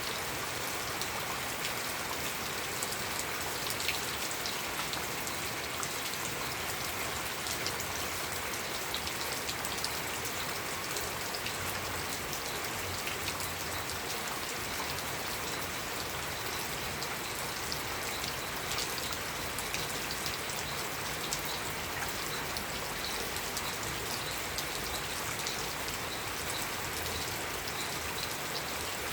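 Steady rain falling, a constant wash of noise dotted with many separate drop ticks.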